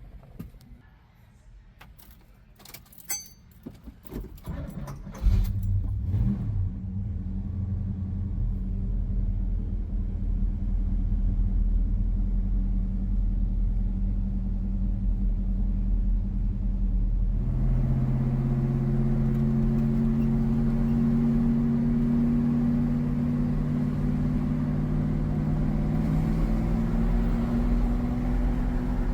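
A few clicks and knocks, then a car engine starts about five seconds in and runs with a steady low note. At about 17 seconds its pitch and level rise and stay higher to the end.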